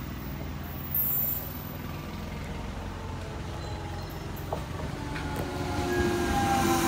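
Indian Railways electric locomotive approaching along the track, its rumble growing steadily louder from about four seconds in. A whine of several steady tones comes in over it near the end.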